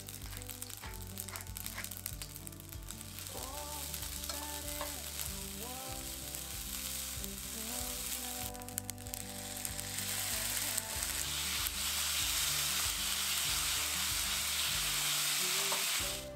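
Yakisoba noodles sizzling as they fry in a frying pan and are stirred with chopsticks. The sizzle grows louder from about the middle on and stops abruptly near the end.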